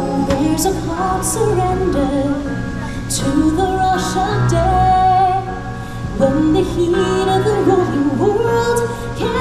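Stage-show music: a woman sings a slow, wavering melody over sustained backing chords.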